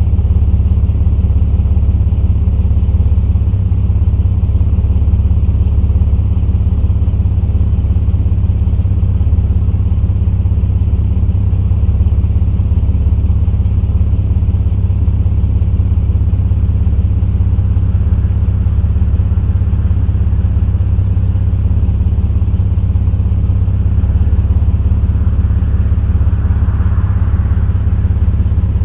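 Jeep Grand Cherokee's engine idling steadily, a constant low-pitched sound with no change in speed.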